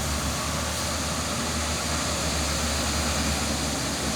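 Diesel engine of a dump truck loaded with sand, running with a steady low rumble as the truck drives past.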